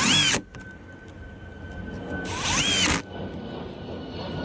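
Power drill or driver run in short trigger bursts, its motor whine rising and falling each time, three bursts about two and a half seconds apart, with a faint steady whine underneath.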